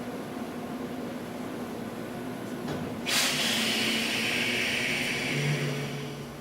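Old Keihan Otsu Line railcar with its equipment humming steadily. About three seconds in, compressed air hisses out suddenly and trails off over about three seconds, and a low steady tone comes in near the end.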